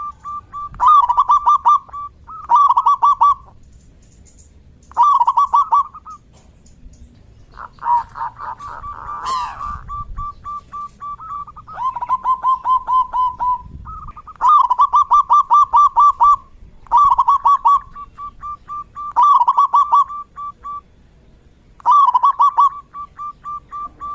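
Zebra dove cooing: loud phrases of rapid staccato coos about every two to three seconds, with a fainter run of evenly spaced coos between them. A brief rising whistle comes about nine seconds in.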